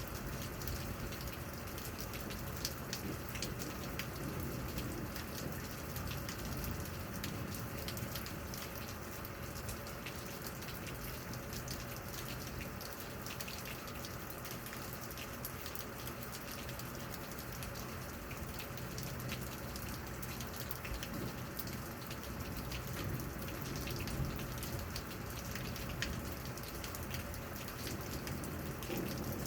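Steady rain falling during a thunderstorm, with many individual drops pattering on a nearby surface.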